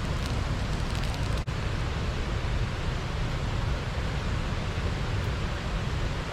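Water rushing steadily over a small river weir. There is a brief break about a second and a half in.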